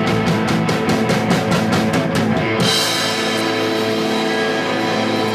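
Live punk rock band playing an instrumental passage: drums keep a fast, even beat under distorted guitar. About two and a half seconds in, a cymbal crash rings out over held guitar chords.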